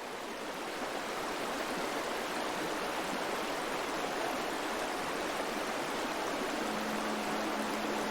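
Water running in a stream, a steady even rush. A faint low steady tone comes in near the end.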